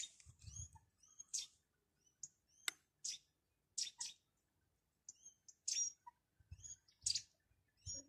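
Small birds chirping: many short, high, scattered calls, faint, with a few sharp clicks among them.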